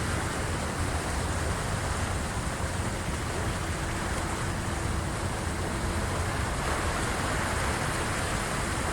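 Incoming high-tide sea waves washing steadily against the shore, a continuous even wash with a strong low rumble.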